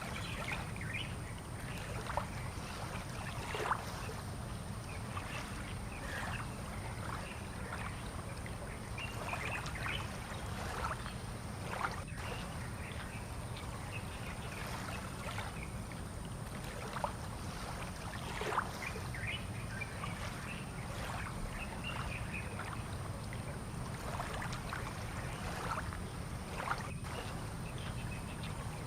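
Fishing-port waterside ambience: a steady low rumble under scattered short splashes and trickles of water, with a few sharper clicks.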